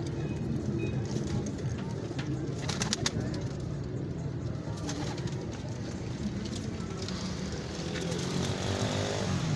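Pigeons cooing over the steady background hum of a busy market, with a few sharp clicks about three seconds in.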